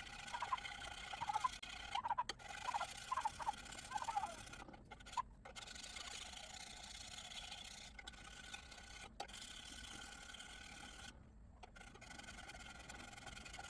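Faint scraping of a hand file on the cast iron exhaust manifold's gasket face, with a few short pitched chirps in the first four seconds.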